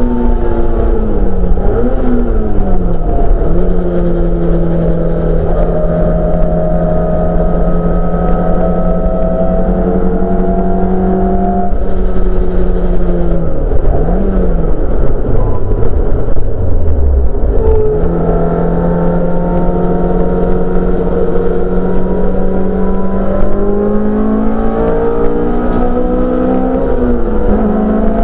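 Honda F20C 2.0-litre inline-four engine in a Mk2 Ford Escort race car, heard from inside the cabin on track: revs fall under braking with brief blips on the way down, hold steady for several seconds, fall again with a blip to low revs about two thirds of the way in, then pick up and climb near the end.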